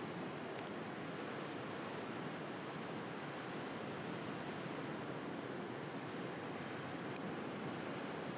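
Steady wash of sea surf, with a few faint crackles from a wood fire scattered through it.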